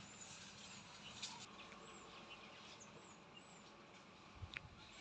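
Quiet outdoor ambience with faint, scattered short bird chirps. There is a small click a little over a second in, and a sharp knock near the end.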